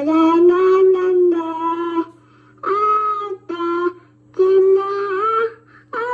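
A toddler's voice played back from an old cassette tape recording: long drawn-out, sing-song syllables in about five phrases with short gaps, over a steady low hum.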